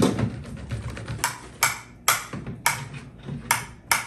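A run of short, sharp clacks, about two a second and slightly uneven, starting about a second in, after a single thump at the very start.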